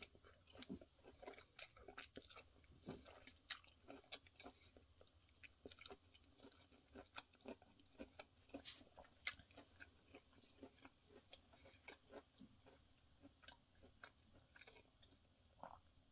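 A person chewing food close to the microphone: soft, irregular crunches and wet clicks, several a second.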